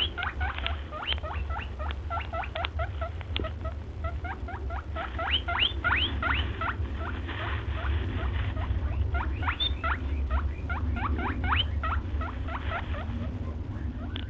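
A small animal giving a rapid series of short, high squeaks, each rising in pitch, several a second, over a steady low rumble.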